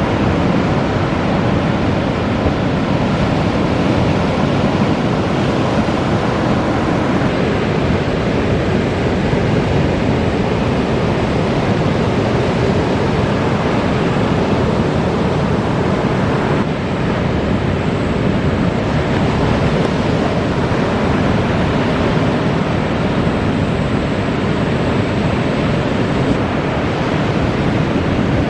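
Ocean surf breaking continuously, a loud, steady wash of noise, with wind on the microphone.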